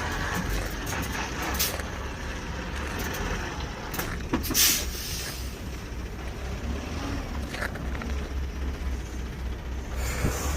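Diesel semi trucks running at idle, a steady low rumble, with a few short hisses, the loudest about four and a half seconds in.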